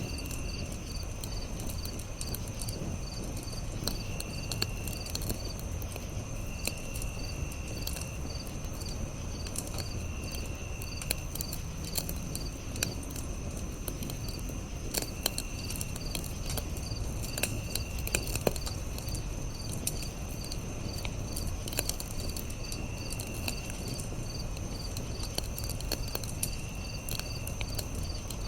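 Campfire crackling with sharp scattered pops over a low steady rumble, while crickets chirp in a regular pulsing rhythm over a steady high insect drone, and a shorter insect trill comes and goes every few seconds.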